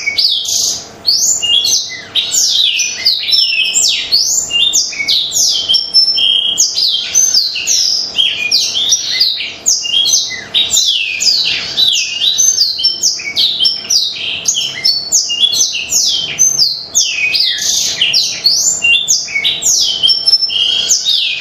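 Black-throated canary (blackthroat) singing a continuous, rapid song of sweeping high chirps and trills with no pauses, over a faint steady hum.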